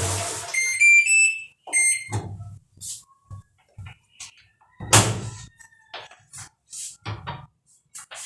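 Electrolux automatic washing machine's control panel beeping: a quick run of short electronic tones stepping upward in pitch, then one more beep. Several sharp knocks follow, the loudest about five seconds in.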